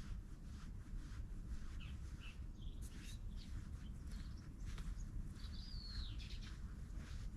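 Wild birds chirping with scattered short calls, and one longer call that slides down in pitch near the end, over a steady low background rumble.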